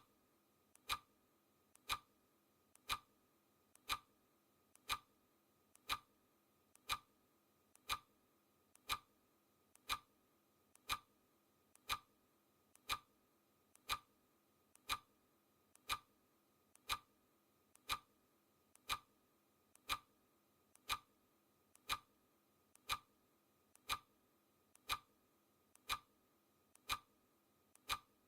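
Clock ticking sound effect: a sharp tick about once a second, each with a fainter click just before it.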